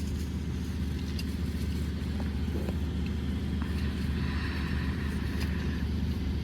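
Steady low rumble of a car driving, heard from inside the cabin: engine and road noise, with a faint high whine in the middle.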